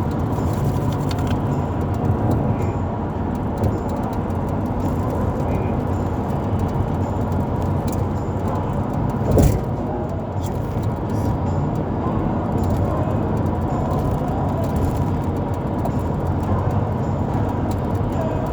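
Steady road and engine rumble of a moving vehicle heard from inside the cabin, with a single thump about halfway through.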